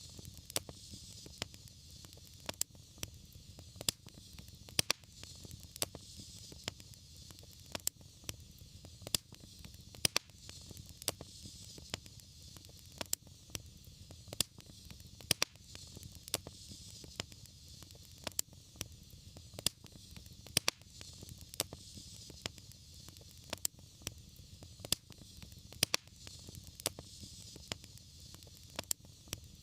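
Wood fire burning in a fireplace: a steady low rumble and soft hiss, with sharp crackles and pops several times a second.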